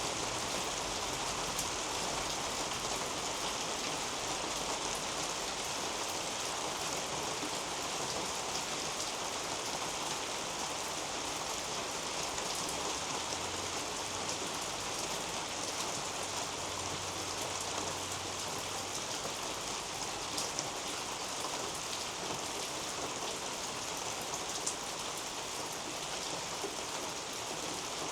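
Steady rain falling on garden foliage, an even patter with a few louder single drops standing out near the end.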